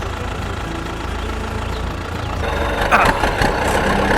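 A steady low engine-like idling hum that grows louder about two and a half seconds in, with a few sharp clicks around the three-second mark.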